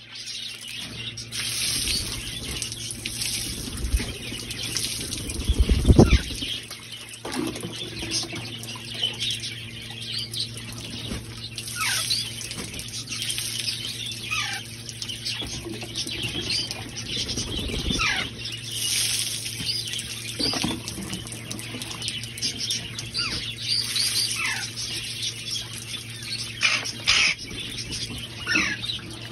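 Water spraying down from an overhead sprinkler setup as a steady hiss, with pet parrots giving many short falling chirps and squawks while being showered. A loud thump about six seconds in.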